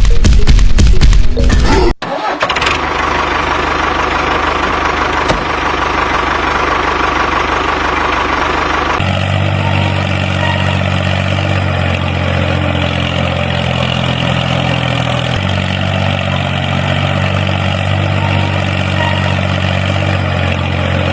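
Tractor engine running after a cut from about two seconds of loud music: first a rough, noisy running, then, about nine seconds in, a steady idle with a deep, even hum.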